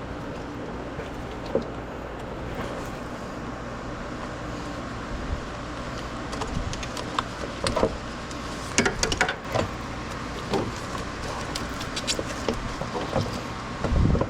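Scattered clicks and light knocks of hand tools and engine parts being handled, busiest in the second half, over a steady low hum.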